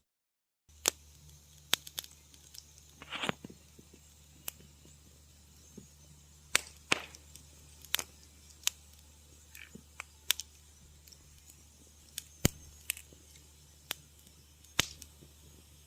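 Wood fire crackling in a fireplace: sharp, irregular pops and snaps about once a second, with a short hiss about three seconds in, over a low steady hum. The sound cuts out completely for a moment at the very start.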